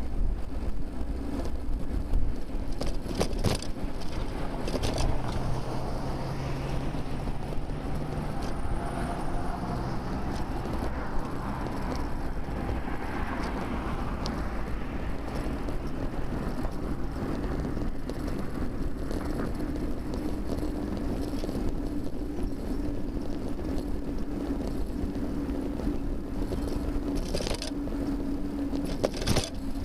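Steady road and traffic noise picked up by a rear-facing camera on a moving bicycle, with motor vehicles running close by and a low engine hum about a third of the way through. A few short clicks and rattles can be heard.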